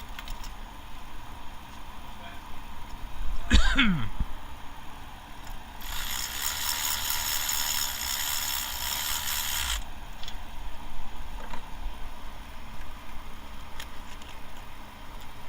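Hand tools working on an engine. A short sharp scrape with a falling pitch comes a few seconds in, followed by about four seconds of rapid ratcheting rattle.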